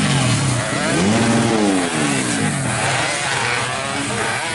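Racing motorcycle engines revving hard as they pass on the track, the pitch rising and then falling with each pass.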